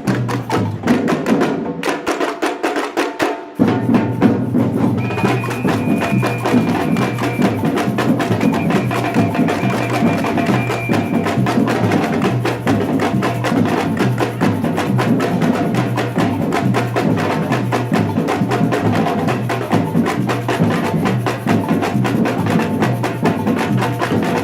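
Batucada samba drum ensemble playing a driving, even rhythm. About two seconds in the low drums drop out for a moment before the full group crashes back in, and a high held tone sounds over it for several seconds in the middle.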